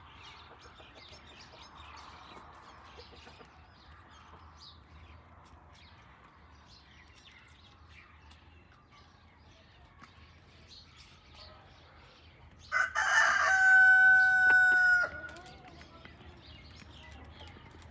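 A rooster crows once, loudly, about two-thirds of the way through: a single crow of a couple of seconds ending on a long held note. Before it, hens cluck faintly.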